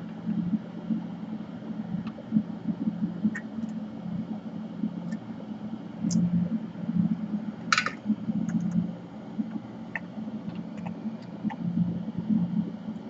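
A bench exhaust fan running with a steady low hum, with scattered small clicks and one sharper click just before the 8-second mark from tools working on the laptop's DC jack solder joints.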